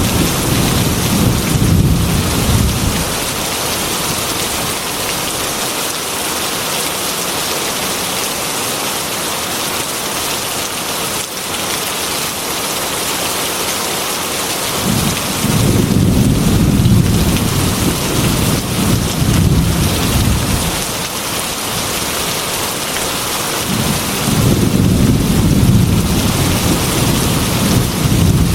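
Heavy rain pattering steadily on a glass window, with rolling thunder: a rumble fades out about three seconds in, another rolls through the middle for several seconds, and a third builds near the end.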